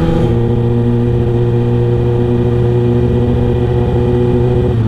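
Kawasaki ZX-6R 636 inline-four engine running at a steady speed while the motorcycle cruises, its pitch holding level throughout.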